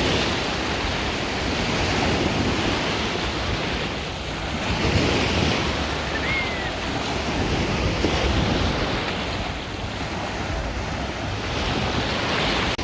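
Sea waves washing onto the beach, the surf swelling and falling back every two to three seconds, with wind buffeting the microphone.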